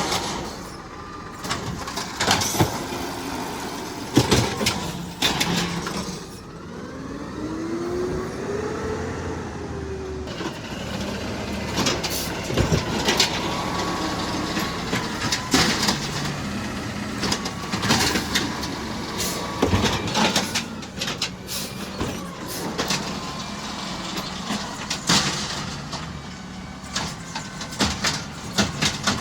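Garbage truck at work: a steady engine running, with repeated sharp knocks and clanks throughout and a rising whine about seven to ten seconds in.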